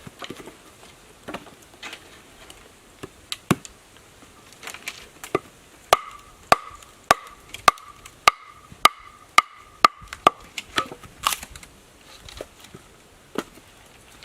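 A tool striking wood in a series of sharp chops. In the middle there is an even run of about two strikes a second with a ringing tone between them, and scattered strikes before and after.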